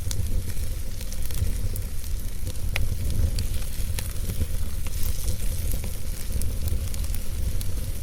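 Wood fire burning in a fireplace: a steady low rumble of flames under a hiss, with scattered sharp crackles and pops.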